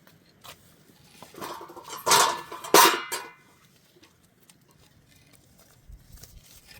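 A farm bird's harsh squawks, with two loud cries about two and three seconds in.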